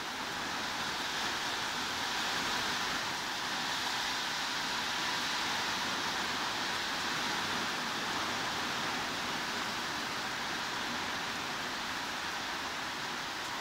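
Heavy rain as a steady, even hiss, with no separate drops or other sounds standing out.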